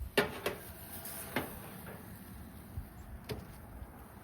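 A few separate sharp knocks and clicks of plates and utensils being handled while food is served up.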